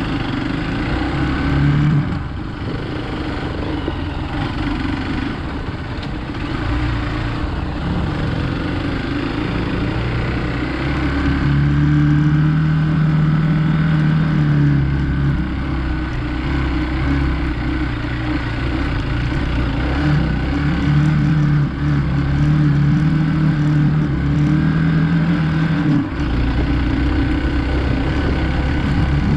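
Hero Xpulse 200 motorcycle's single-cylinder engine running under throttle while being ridden off-road. The engine note holds steady for stretches, shifts with the throttle, and briefly drops away near the end.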